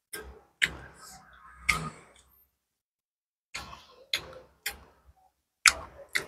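Close-up eating sounds: chewing with sharp wet mouth clicks and smacks, coming in irregular clusters with a pause of about a second and a half midway.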